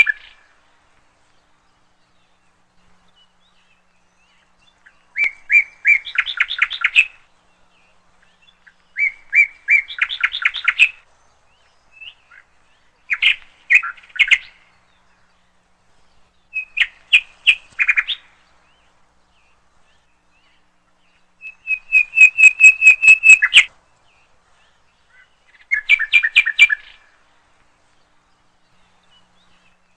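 A songbird singing in short phrases of rapid repeated chirps, about seven phrases a few seconds apart, with silence between them.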